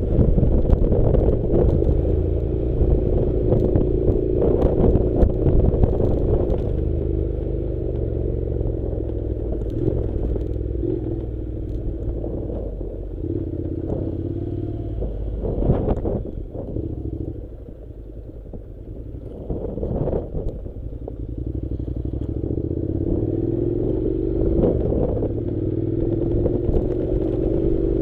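Honda NC700's parallel-twin engine running on a rough dirt track, with clattering and sharp knocks from the bumpy surface. The engine eases off and gets quieter about two-thirds of the way in, then its note rises steadily again near the end.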